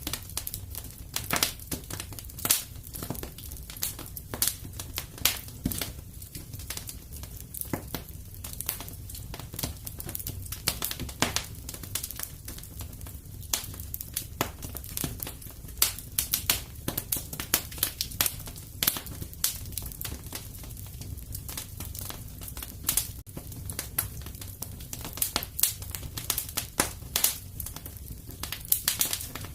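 Wood fire crackling in a fireplace: many irregular sharp snaps and crackles over a steady low rumble.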